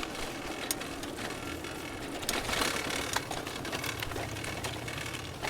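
Bicycle freewheel hub ticking rapidly as the bike coasts, with scattered sharper clicks and rattles.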